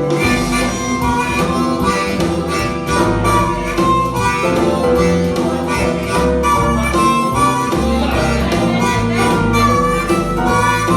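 Harmonica blues: a harmonica playing sustained notes over guitar, bass and a steady beat.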